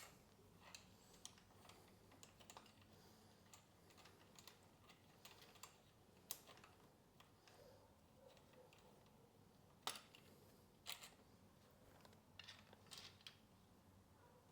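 Faint, irregular light clicks and taps over near-silent room tone, with a few sharper ones and a quick cluster near the end.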